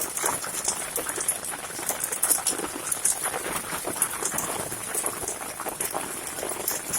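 Hailstones pelting down in a dense, continuous clatter of many small sharp impacts.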